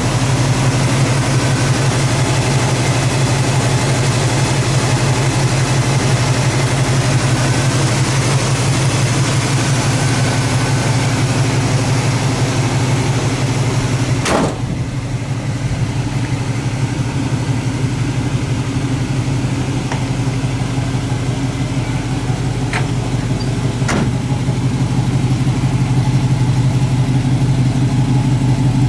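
1972 Chevelle SS's 350 small-block V8 running steadily at a low idle, with a brief break about halfway through.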